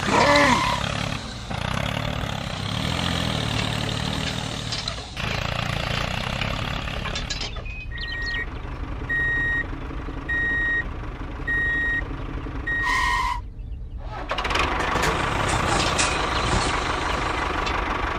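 A heavy vehicle's engine runs steadily. In the middle a reversing alarm beeps about five times, roughly once a second.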